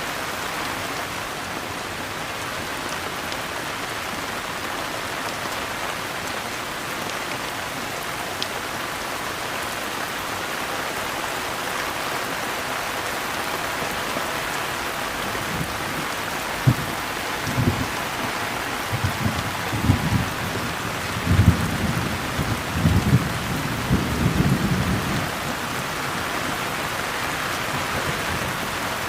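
Steady rain falling. About halfway through, a low, rolling rumble of thunder comes in and swells in several surges for about ten seconds before fading back into the rain.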